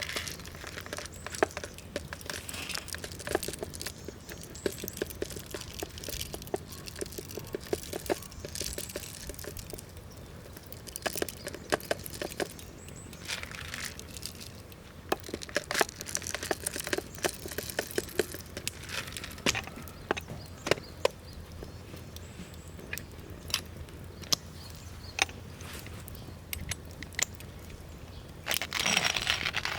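Wood campfire crackling, with irregular sharp pops and cracks. Near the end a louder hiss sets in.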